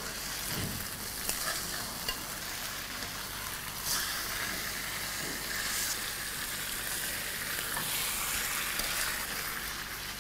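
Yogurt-marinated fish and marinade sizzling in hot oil and ghee in a metal karahi, a steady frying hiss with a spatula stirring and scraping in the pan, and a few light clicks.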